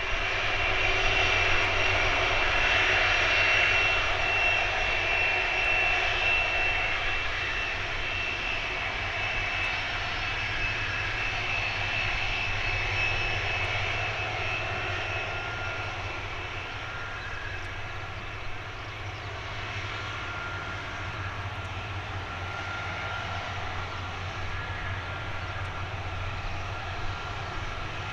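Jet engines of a Boeing 747-400F freighter running steadily, a rushing noise with a high whine over a low rumble. It is loudest in the first few seconds and then eases off slowly.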